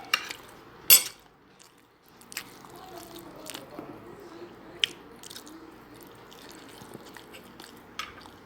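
Close-up eating sounds of a person chewing a mouthful of rice and tilapia, with crunching and scattered sharp clicks, the loudest about a second in.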